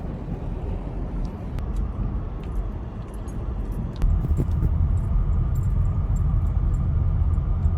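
Low, steady rumble of a car, growing louder about four seconds in, with a few faint clicks.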